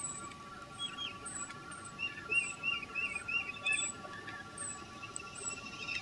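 Birds chirping: short high chirps repeating about twice a second, with a quick run of about six lower chirps in the middle, over faint steady tones.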